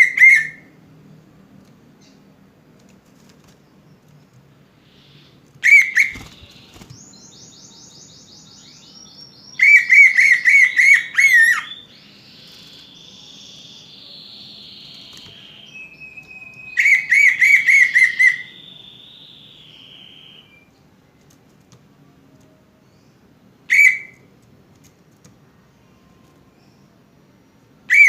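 Cucak ijo (green leafbird) song: repeated bursts of fast, loud whistled notes, each lasting about a second and a half, with a run of high thin notes and a longer scratchy, buzzy warble in the middle stretch.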